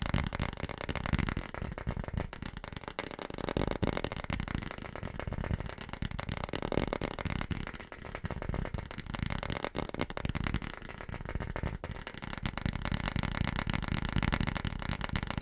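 Very fast, aggressive tapping on a household object, the taps so close together that they run into a continuous rattling clatter.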